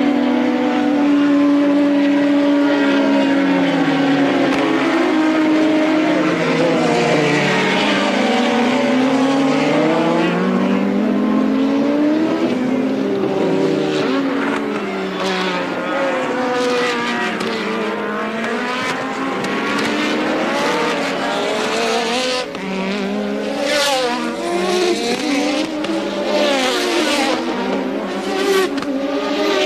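Several 1983 Formula One cars' engines racing, often overlapping, their pitch rising and falling as the cars accelerate, shift and pass. The engine notes turn choppier in the last several seconds.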